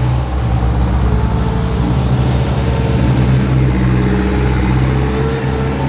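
Heavy diesel engine running steadily with a low, even drone, as from a six-wheel dump truck or excavator working on the site.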